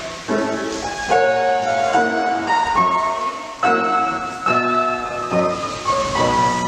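Piano music with a new chord struck about once a second, typical of ballet barre class accompaniment.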